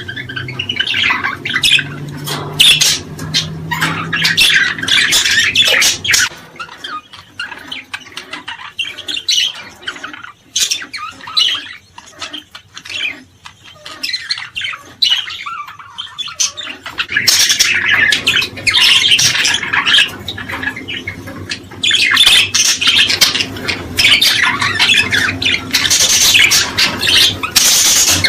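Small songbirds chirping and calling in a dense chorus of short, high chirps. It thins out in the middle and grows busy and loud again after about two thirds of the way through.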